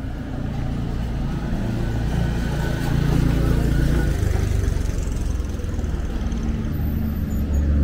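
A Lamborghini Urus's twin-turbo V8 running as the SUV drives past close by, a deep engine rumble that grows louder about three seconds in and stays strong, over other street traffic.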